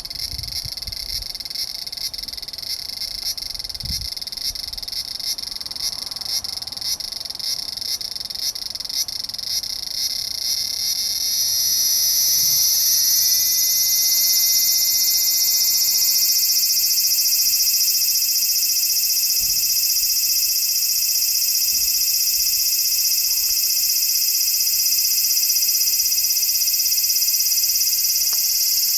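Large brown cicada (aburazemi) calling: a rapid pulsing buzz for about the first ten seconds, which then swells into a louder, steady sizzling drone, rising a little in pitch as it settles.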